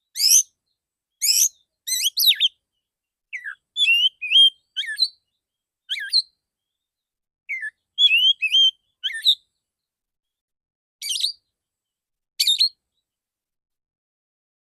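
Male oriental magpie-robin (kacer) singing: loud rapid phrases of harsh notes at the start, then a run of clear whistled notes that glide up and down, then two short calls, with silent gaps between phrases and the song stopping near the end.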